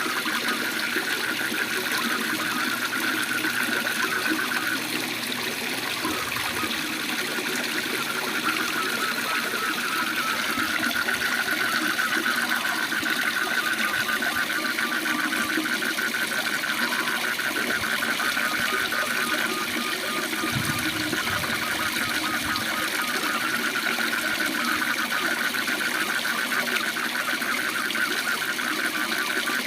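Waterfall rushing steadily, with a chorus of frogs giving a fast, continuous pulsing trill over it.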